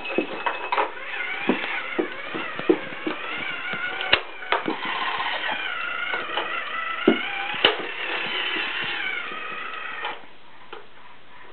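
Toy fire truck's electronic sound effects, a wavering warbling tone, over a run of sharp plastic clicks and knocks from the toy being handled; it drops away about ten seconds in.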